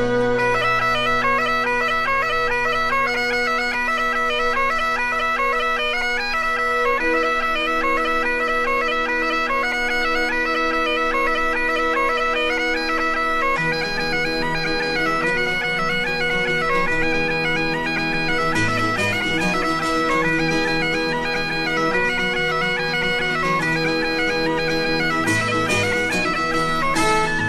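Background music: bagpipes playing a tune over steady held drones.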